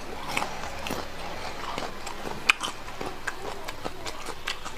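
Close-miked eating sounds: chewing of braised pork, with irregular wet mouth clicks and smacks and one sharper click about two and a half seconds in.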